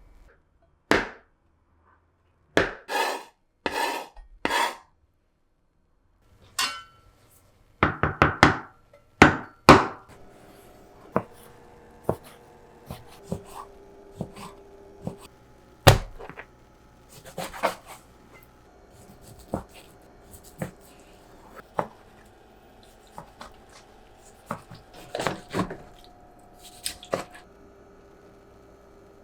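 Kitchen tools being handled: a run of separate knocks, clicks and a few short scraping strokes. The strokes come in clusters a few seconds in and again near the middle, with lighter ticks scattered between.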